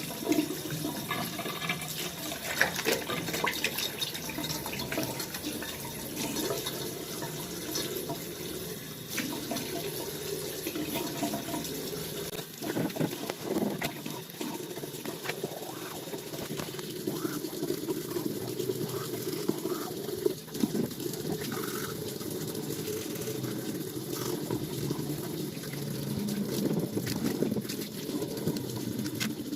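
Water running and splashing steadily, like a tap into a sink, with scattered small knocks and clinks.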